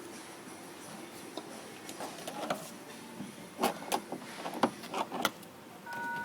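Metal clicks and knocks of pliers working the hinge height-adjustment nut on a refrigerator door, a cluster of them past the middle, some loud. A short electronic beep from the refrigerator near the end.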